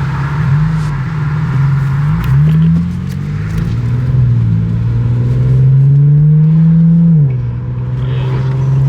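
Car engine revving through a muffler-deleted exhaust: the revs rise and fall several times, climb and hold high for a few seconds, then drop suddenly about seven seconds in.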